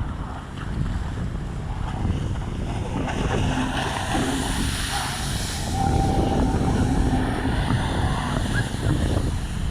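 Jet ski engine running, swelling up to a peak about five and a half seconds in and then fading as it passes. Wind buffets the microphone with a steady low rumble.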